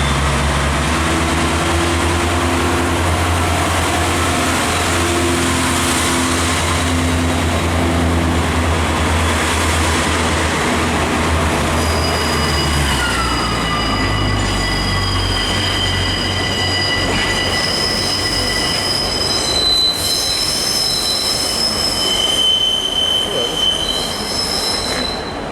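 Diesel passenger train pulling out, its engine droning low for the first half. From about halfway, its wheels squeal in several high held tones that come and go.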